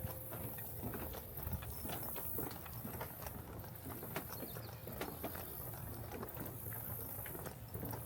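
Footsteps of a person walking along a nature trail, steady knocks about twice a second over a faint outdoor hiss.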